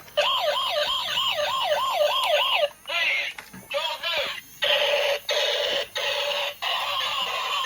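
Transforming toy police car's electronic siren effect from its small built-in speaker: a fast wavering wail, about three wobbles a second, for the first two and a half seconds, then choppy electronic sound effects and held tones.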